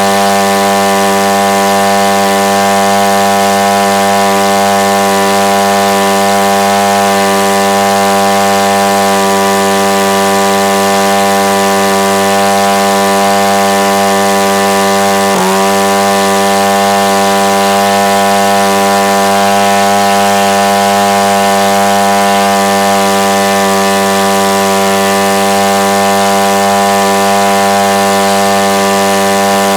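Husqvarna chainsaw's single-cylinder two-stroke engine, converted to electronic ignition, running steadily at high speed driving a 22 x 13 model-aircraft propeller. About halfway through its note dips sharply for an instant and recovers.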